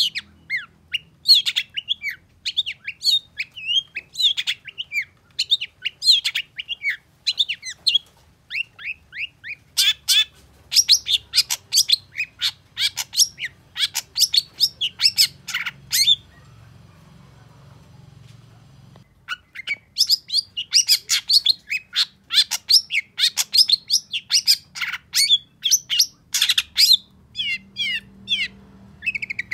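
Long-tailed shrike (cendet) singing a fast, chattering song of short, sharp notes, which breaks off for about three seconds midway and then resumes.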